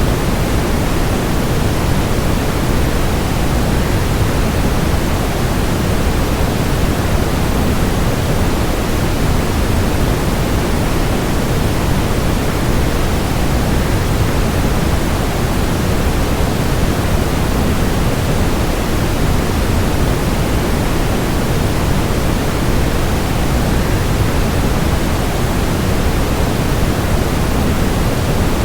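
Waterfall rush blended with white noise: a steady, unbroken hiss, heaviest in the low end, with no separate events.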